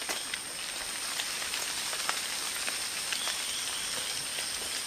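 Rainforest ambience: a steady high-pitched insect drone over an even hiss, with scattered faint ticks.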